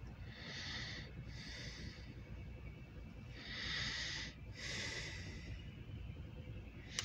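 A person breathing close to the microphone: two slow breaths, each a rush of air in and then out, over a low steady rumble.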